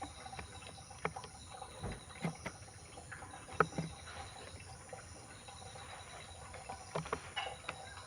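Scattered sharp taps and clicks, a few seconds apart and irregular, over a faint steady background.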